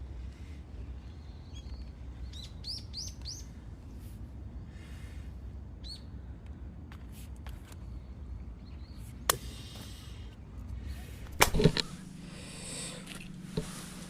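Small birds chirping in short rising calls over a low outdoor rumble, then a sharp click about nine seconds in and a loud cluster of knocks near twelve seconds, after which a low steady hum sets in.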